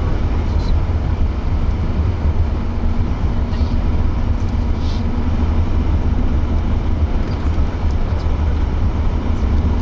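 Steady low rumble of road and engine noise inside a moving car's cabin, with a faint steady hum joining about two and a half seconds in and a few light ticks.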